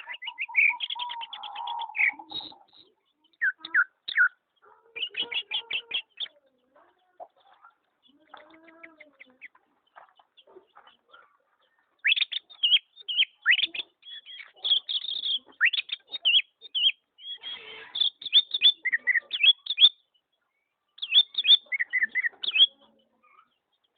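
Pet songbirds chirping and singing in quick, high runs of notes that come in bursts with pauses between, and a quieter lull near the middle.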